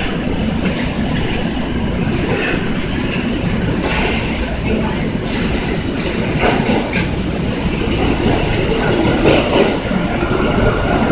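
Kintetsu limited express train cars standing coupled at a platform: a steady low rumble with a faint high whine, broken by scattered sharp clicks and clanks.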